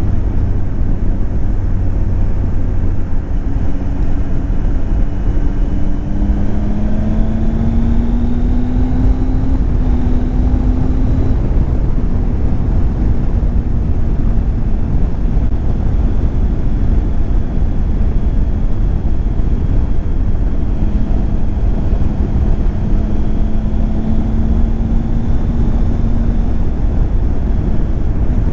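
Triumph Tiger 800 XCX's three-cylinder engine running under way, its pitch rising as it pulls from about a fifth of the way in, steadying, then climbing slowly again in the last third. Steady wind rush runs underneath.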